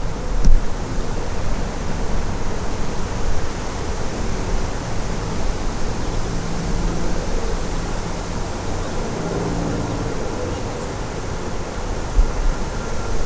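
Strong wind blowing through the woods: a steady rushing noise, with low rumbling gusts on the microphone.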